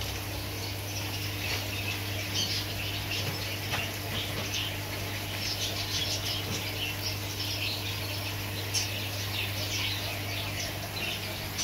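Many small birds chirping busily, with short, high chirps overlapping throughout, over a steady low hum.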